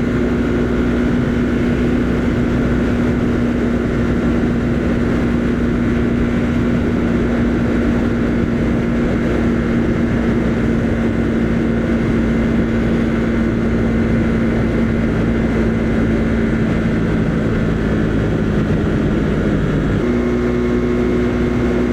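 Husqvarna Svartpilen 401's single-cylinder engine running at a steady cruise, with wind rumble on the microphone. Near the end the engine note sags slightly, then steps up in pitch.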